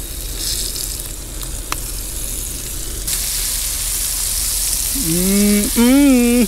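Flour-coated squid strips frying in a pan of hot oil: a steady sizzle that gets louder about three seconds in. Near the end a man's voice hums a wavering note over it.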